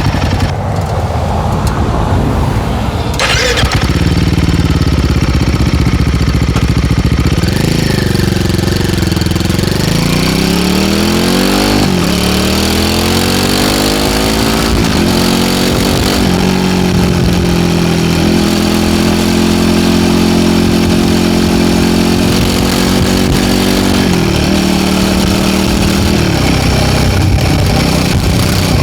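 Royal Enfield Guerrilla 450's single-cylinder engine, heard through an MTG link pipe exhaust while the bike is ridden. The revs climb through several quick upshifts, each shift dropping the pitch, then hold steady at cruise before falling again near the end. There is a single sharp crack about three seconds in.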